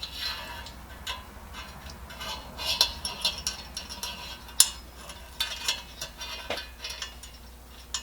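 Small metal stove parts clicking and scraping as a Coleman 502's generator is worked back into place by hand: scattered light clicks, a quick cluster just before the middle and one sharper click about halfway through.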